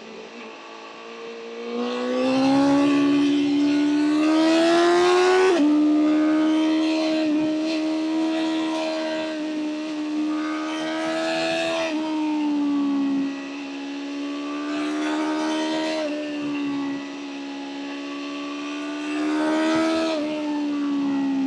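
BMW M1000R's inline-four engine pulling hard through the gears. Its note climbs in pitch, drops sharply at an upshift about five seconds in, then holds and eases between further pulls. There is another rise and shift near the end.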